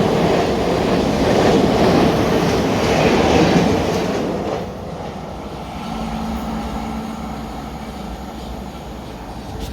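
Passenger train running past on the rails, a loud rumble with wheel clatter that drops away after about four and a half seconds, leaving a fainter noise with a steady low hum.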